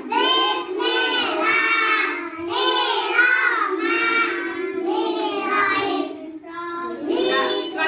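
Young children reciting a prayer together in unison in a sing-song chant.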